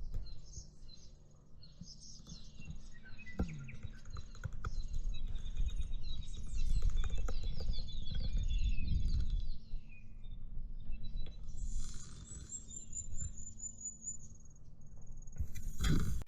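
Songbirds calling and chirping, with many quick gliding notes and a fast run of high falling notes near the end, over a steady low rumble of wind on the microphone.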